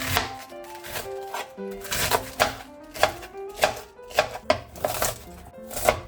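A kitchen knife chopping on a cutting board, sharp strokes about two a second at an uneven pace, over soft background music.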